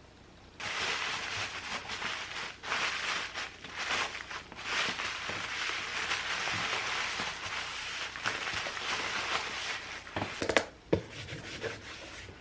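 Packing materials being handled: crinkling and rustling with scattered sharp clicks and taps, starting about half a second in.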